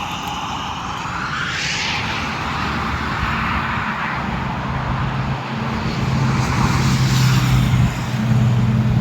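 Highway traffic going by: road noise with a passing vehicle's rising whoosh about a second in, then a steady low engine hum that grows louder from about six seconds in as a heavier vehicle comes close.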